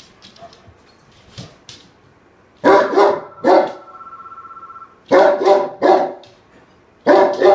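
Dog barking agitatedly in three bursts of two to four barks each. Between the first two bursts a steady high fluttering tone sounds for about a second.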